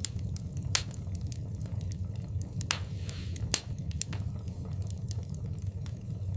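Wood fire burning in a fireplace: a steady low rumble of flame with irregular sharp crackles and pops, a few louder snaps among them, and a brief hiss about three seconds in.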